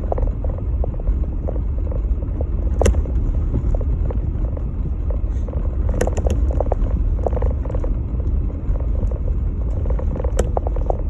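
Jeep Gladiator driving through snow: a steady low rumble of engine and tyres, with scattered small clicks and rattles and a few sharp knocks, at about 3, 6 and 10 seconds in.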